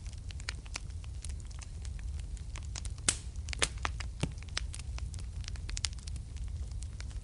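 Wood fire burning in a fireplace, crackling with irregular sharp pops over a low steady rumble; the loudest pops come about three seconds in.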